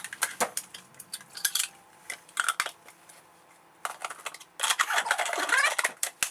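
Hard plastic parts of a cordless handheld vacuum clicking and clattering as they are handled and fitted together, in irregular clusters of sharp clicks. The motor is not running.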